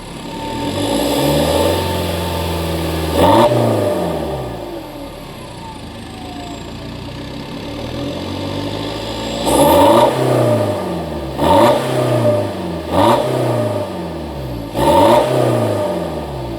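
BMW F30 320d's four-cylinder turbodiesel, DPF removed and otherwise stock exhaust, revved in short throttle blips that rise and fall back toward idle: one rev and a sharp blip early, then a lull, then four quick blips about a second and a half apart.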